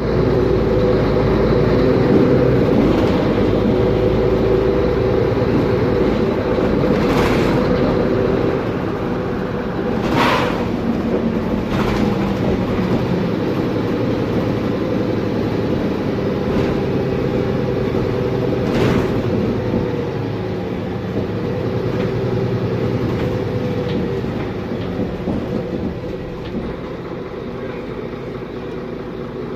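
Mercedes-Benz Conecto G articulated city bus under way, its OM457LA turbo diesel running with a steady whine from the differential and rattling from a loose part. A few short sharp noises stand out about 7, 10 and 19 seconds in, and the sound eases off near the end.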